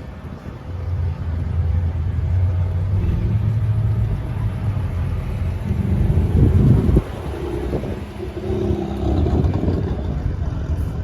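Car engine running at low revs, then revving up with a rising pitch that cuts off sharply about seven seconds in, followed by more engine sound.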